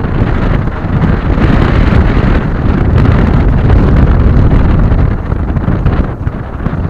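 Strong wind buffeting the microphone: a loud low rumble that surges and eases in gusts, falling off a little near the end.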